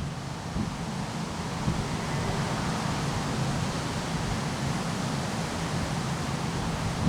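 Wind blowing steadily, a continuous rushing hiss of air, likely through leaves.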